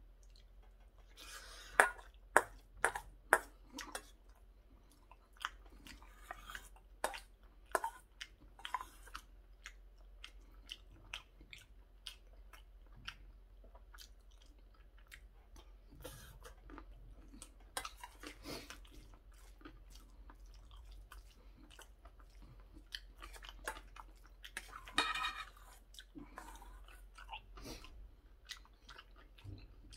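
A person chewing mouthfuls of curry rice close to the microphone, with wet mouth sounds. There are short sharp clicks throughout, loudest in a quick run about two to three seconds in.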